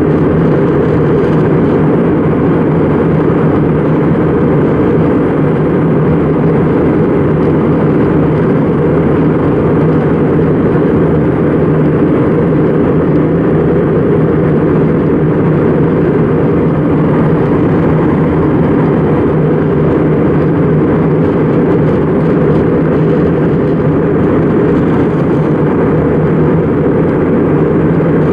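Airbus A320 cabin noise in flight: a steady drone of engines and rushing air, strongest in the low range.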